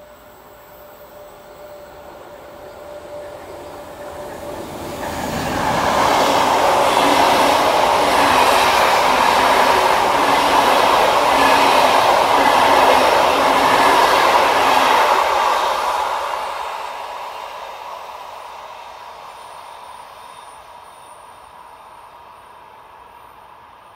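Passenger train hauled by an EL18 electric locomotive passing on the rails: the rolling noise builds over a few seconds, stays loud with a regular beat of wheels for about ten seconds, then fades as the train moves away.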